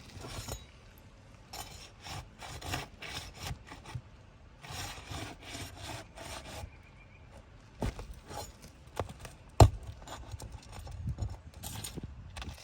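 Steel roofing flat bar scraping and prying under an Elk Prestique dimensional asphalt shingle to break its sealant and work out the nails, in repeated short rasping strokes. A sharp knock a little under ten seconds in is the loudest sound, with a smaller one shortly before it.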